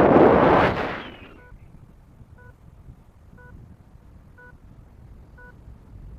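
Wind blasting across the microphone for about the first second, then a paragliding variometer beeping: short, same-pitched beeps once a second.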